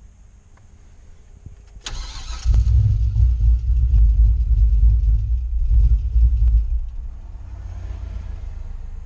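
Turbocharged truck engine being started: a short burst of cranking about two seconds in, then the engine catches and runs loud for about four seconds before settling to a quieter, steady idle.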